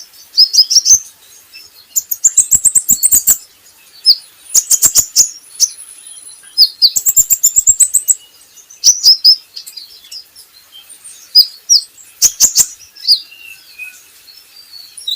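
Kolibri ninja sunbird singing: loud, fast runs of sharp chips and high twittering chirps, repeated in bursts with short pauses between them.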